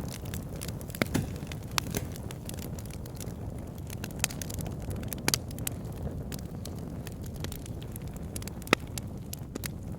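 Wood fire in an outdoor fire pit burning with a steady low rumble of flame, broken by irregular sharp crackles and pops, the loudest pop near the end.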